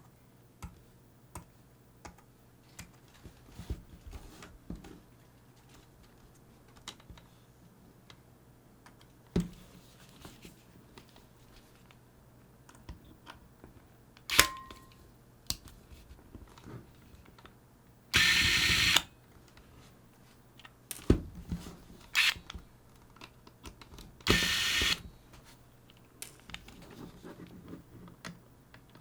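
Small clicks and taps of tools and plastic and metal parts as a Sony HVR-DR60 recorder is taken apart, over a steady low hum. One sharp click with a brief ring comes about halfway through, and two one-second bursts of buzzing noise come later, the loudest sounds.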